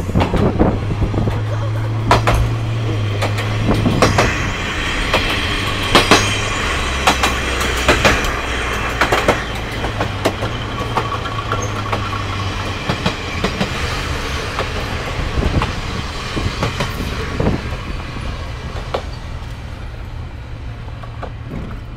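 Japanese National Railways diesel railcars KiHa 52 and KiHa 28 running at speed, a steady low engine drone that drops in pitch about six and a half seconds in, with wheels clicking over the rail joints. It grows a little quieter toward the end.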